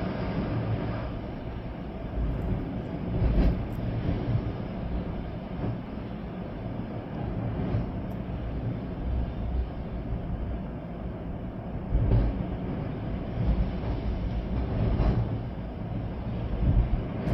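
Storm wind gusting hard, with a low rumble of wind buffeting the microphone that swells and falls irregularly, over the hiss of rain.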